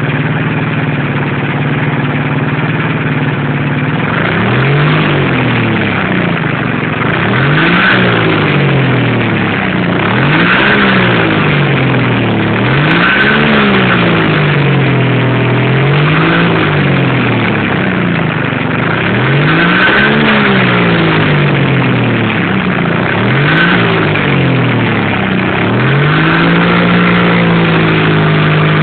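Subaru EK23 550cc two-cylinder engine, just repaired, idling and then revved repeatedly: about eight throttle blips, each rising and falling back within a second or two, before it settles to a steady, slightly faster idle near the end.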